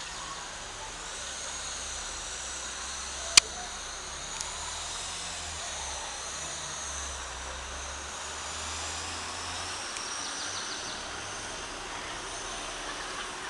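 Outdoor rural ambience: a steady hiss with faint, wavering high-pitched tones and a low rumble underneath. One sharp click comes about three and a half seconds in.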